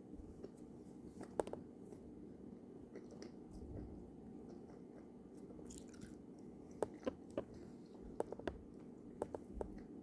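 Faint, close chewing of a soft gummy candy with marshmallow: scattered wet mouth clicks and squishes, more frequent over the last few seconds, over a steady low background hum.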